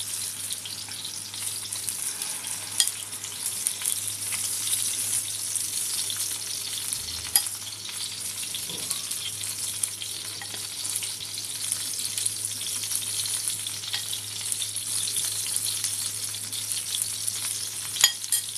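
Eggplant rings frying in hot oil in a frying pan, sizzling steadily as a wet egg-and-shrimp mixture is spooned into them. A few sharp clicks stand out, about three seconds in, near the middle and near the end.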